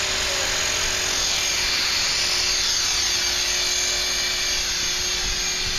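HK450 electric RC helicopter in flight, its brushless motor and rotor blades whining steadily, with faint pitch shifts in the high whine. Wind rumbles on the microphone underneath.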